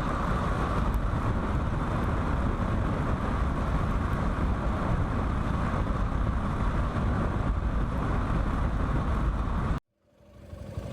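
Steady rush of wind and road noise from a motorcycle ride, which cuts off suddenly near the end. An engine idle then fades in.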